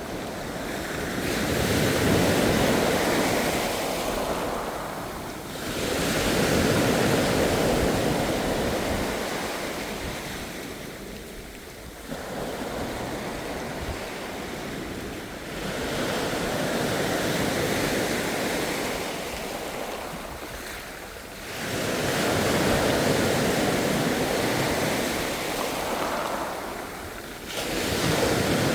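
Ocean waves breaking and washing on the shore, surging and receding in a slow rhythm about every five to six seconds.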